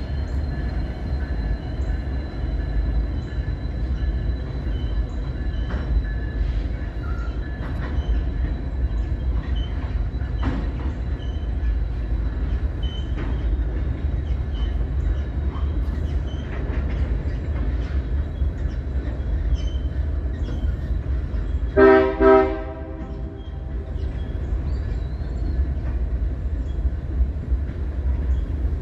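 Freight train of hopper cars rolling over a steel girder bridge: a steady low rumble with a thin, steady wheel squeal and scattered clicks of the wheels. About three-quarters of the way through, a train horn sounds two short blasts.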